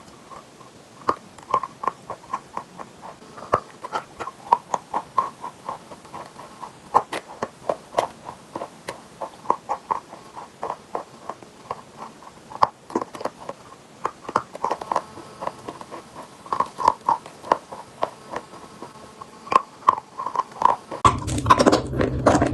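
Chalk being bitten and chewed close to the microphone: a run of short, crisp crunches, about two to three a second. Near the end a louder, fuller sound with more bass comes in over them.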